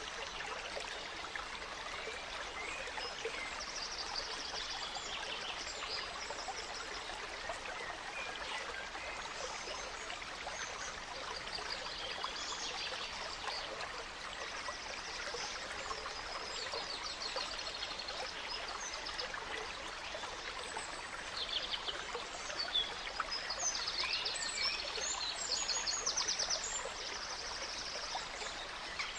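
A gentle stream trickling steadily, with several songbirds singing over it in short trilled phrases and chirps that come thicker near the end.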